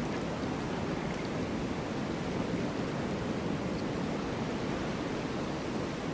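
Snowstorm wind blowing steadily, an even rushing noise with no gusts or breaks.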